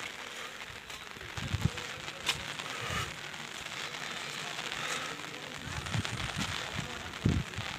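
Steady hiss of rain outdoors, with irregular low thumps of wind buffeting the microphone.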